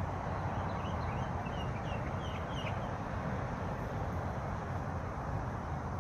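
Steady rushing of a waterfall, with a bird calling a quick run of short chirps in the first half.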